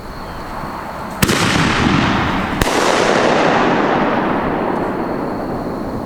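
Two sharp firework bangs about a second and a half apart, followed by a long rolling echo that slowly fades.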